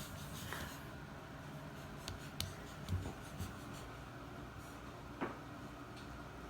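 Faint rubbing and rustling of a baby moving about, with a few light knocks; the loudest is a soft thump about three seconds in.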